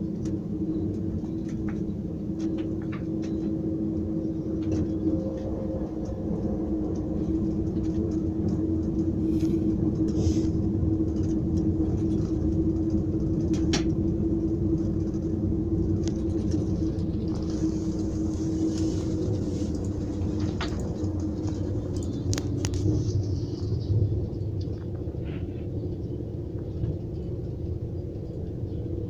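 Passenger train running, heard from inside a carriage: a steady rumble with a held hum that fades about two-thirds through, a hiss for a few seconds around then, and scattered light clicks and knocks.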